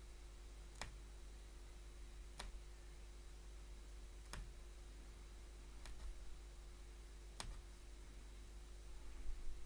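Punch needle (punchcraft) being pushed through stretched fabric, a faint sharp click with each stroke, five strokes about one and a half seconds apart. A brief louder scuffle of handling near the end.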